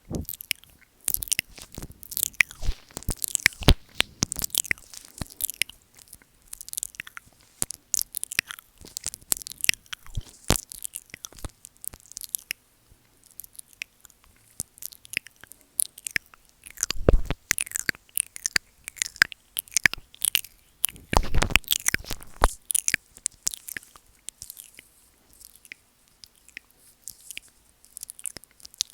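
Close-miked ASMR mouth sounds: a steady stream of irregular wet clicks and smacks from lips and tongue licking and nibbling on the microphone, with a couple of heavier, fuller bursts about halfway through.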